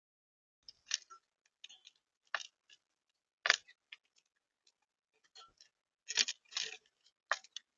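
Irregular sharp taps and scratchy clicks of birds pecking and scrabbling on a bird feeder, picked up close by the feeder camera's microphone. The loudest knocks come about a third of the way in and again a little after three quarters.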